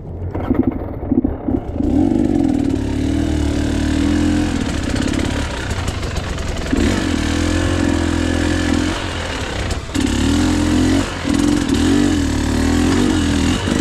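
KTM EXC 300 two-stroke single-cylinder dirt bike engine being ridden. It gives a few short throttle blips at first, then revs rise and fall as the throttle is worked, easing off twice.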